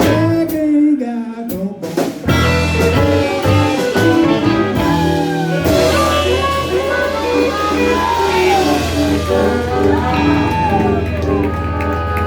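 Live blues band playing: electric guitar with bending notes over bass and drum kit, with some singing.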